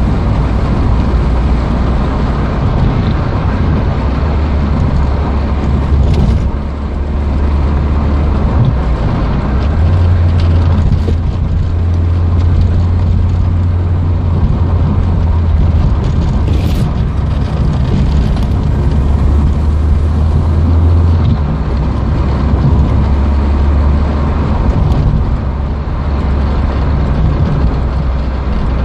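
Peugeot 205 1.6's four-cylinder petrol engine heard from inside the cabin while driving, a loud low drone with road noise. The engine note steps up in pitch about ten seconds in and drops back around twenty-one seconds, with a short dip in loudness about six seconds in.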